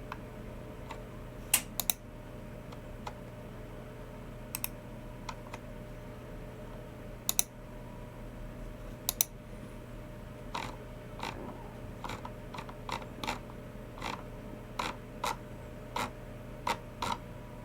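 Typing on a Logicool MX Keys Mini low-profile keyboard mixed with clicks of a Logicool G304 mouse. It starts as a few scattered sharp clicks, some in quick pairs, and turns to a steady run of keystrokes in the second half, over a faint low hum.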